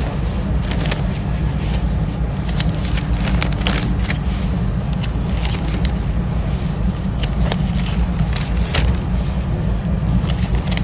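Steady low rumble of a moving vehicle, with scattered crackles and clicks throughout.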